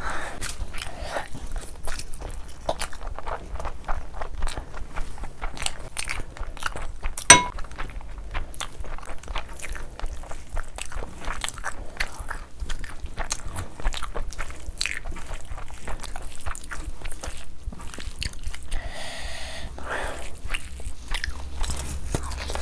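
Close-miked eating sounds of a person chewing a mouthful of rice and mutton liver curry, with wet lip smacks and squelching as a bare hand mixes and scoops curry-soaked rice. There is a sharper, louder click about seven seconds in.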